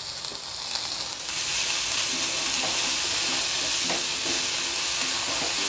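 Chopped onion, ginger and garlic sizzling in a spoonful of freshly added oil in a steel kadhai, stirred with a nylon spatula; the sizzle grows louder about a second in and then holds steady as the oil heats.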